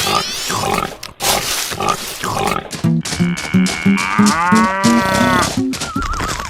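Cartoon-style sound effects: a rising whistle at the start and scattered clicks, then a short stepping run of notes with an arching pitched tone over it about halfway through.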